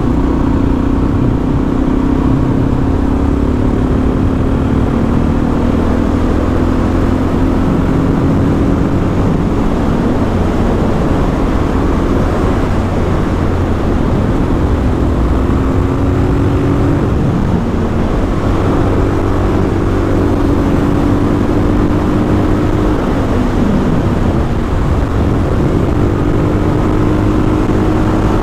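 Suzuki DR-Z400SM's single-cylinder four-stroke engine running steadily at cruising speed under a tall 16/38 highway sprocket set, with wind rush. The engine note drifts slowly up and down, sags briefly about three quarters of the way through, then climbs back.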